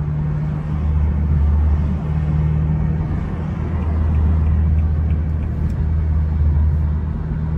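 BMW 428i coupe's engine running steadily at light load, a low drone inside the cabin that swells slightly and eases off again.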